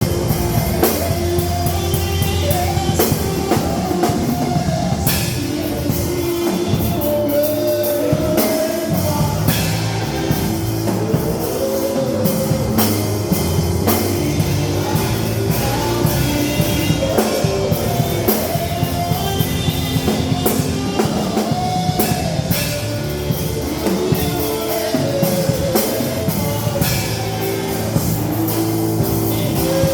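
Full-band worship music with a drum kit keeping a steady beat under a sung melody.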